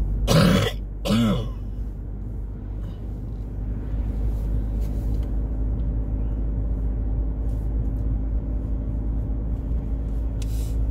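A person coughs twice, one right after the other, within the first second and a half. Under it runs the steady low drone of a moving car, heard from inside the cabin.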